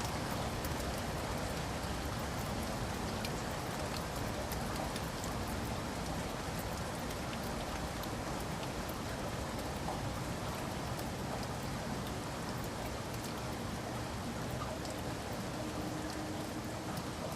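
Steady rain falling, an even hiss dotted with small taps of individual drops.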